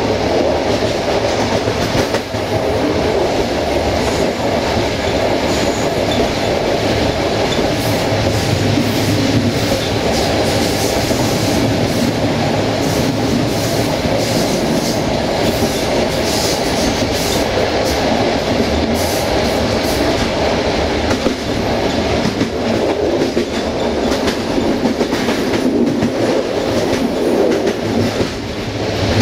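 Passenger train running along the track, heard from inside its rear end: a steady rolling rumble of the wheels on the rails with the carriage rattling, and scattered sharp clicks through the middle.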